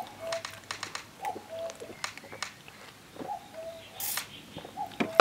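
A bird repeating a soft two-note call, a short higher note followed by a longer steady lower one, about every second and a half. Scattered small clicks and a brief hiss about four seconds in.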